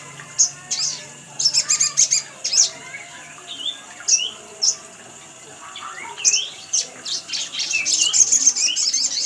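Spiderhunter (sogon) calls: sharp high chirps repeated at uneven intervals, with short downward-sliding notes mixed in. The chirps crowd into a fast run near the end.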